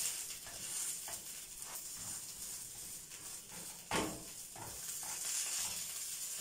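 Oiled meat-stuffed hawawshi bread sizzling steadily in a nonstick frying pan, with a metal slotted spatula pressing and moving it in the pan. One sharper knock comes about four seconds in.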